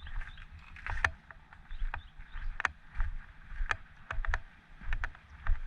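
Sea waves slapping and washing against the rocks of a breakwater in irregular splashes about once a second, with wind buffeting the microphone.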